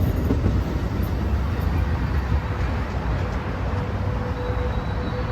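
Tri-Rail train rumbling past on the tracks, the noise easing slightly as it moves off, with a steady whine coming in about four seconds in.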